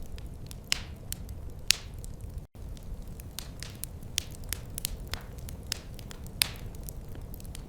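Wood fire crackling in a fireplace: irregular sharp pops and snaps over a steady low rumble. The sound cuts out for a split second about two and a half seconds in.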